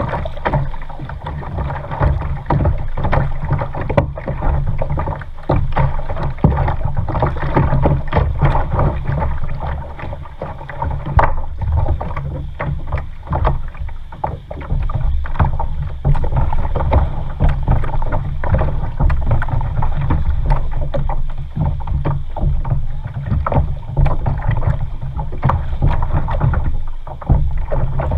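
Kayak paddling on a lake: the paddle dips and splashes irregularly and water sloshes against the hull, over a steady low rumble.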